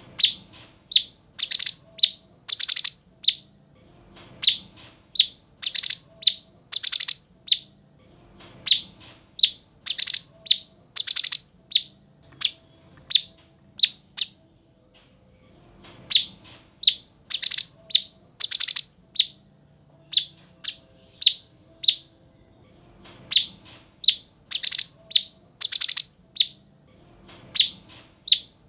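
Cucak cungkok songbird calling: short, sharp high notes mixed with loud, very high rapid trills. The song comes in bursts that repeat every few seconds.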